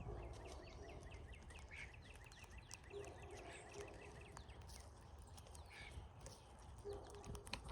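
Brown-headed cowbirds calling at a feeder: a rapid chatter of short falling notes lasting about two and a half seconds near the start, then scattered single calls.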